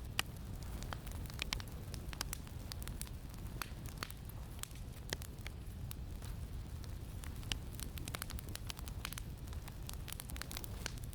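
Campfire crackling, with frequent irregular sharp pops and snaps over a steady low rumble of wind.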